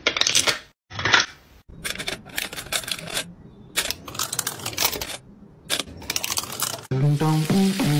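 Kitchen handling sounds: a string of sharp clicks, taps and short clatters of utensils and containers, with gaps between them. Near the end, music comes in with a steady sizzle of frying.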